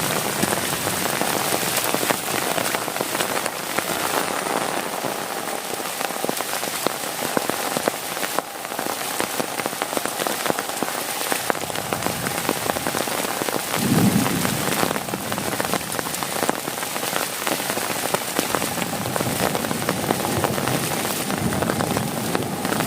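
Heavy rain drumming on a tent and plastic tarp: a dense, steady patter of many close drop impacts, with a short low rumble about two-thirds of the way through.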